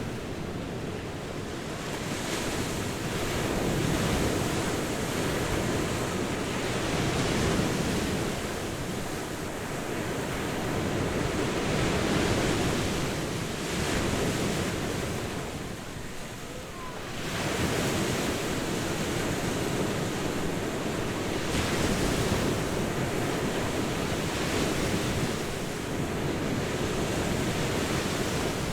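Ocean surf washing onto a beach, a steady rush that swells and eases every few seconds, with a brief lull about sixteen seconds in.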